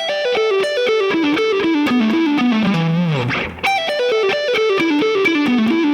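Electric guitar playing a fast descending E minor pentatonic run in groups of six notes with pull-offs. The run falls from the top of the scale to a held low note, stops briefly about three seconds in, then is played again the same way.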